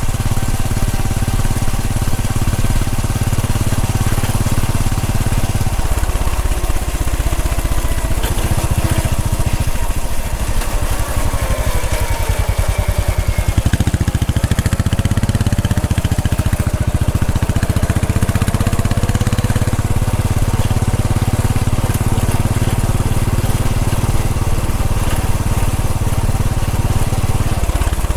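Royal Enfield Bullet 500's single-cylinder engine running at riding speed with a steady low thump. It eases off about six seconds in and pulls strongly again about halfway through.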